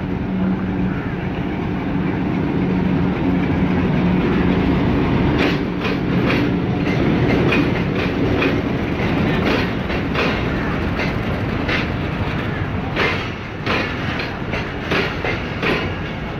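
Pakistan Railways passenger train arriving at a platform. Its diesel locomotive's engine drones steadily as it passes in the first few seconds. Then the coaches roll by with their wheels clicking over the rail joints, the clicks coming thicker towards the end.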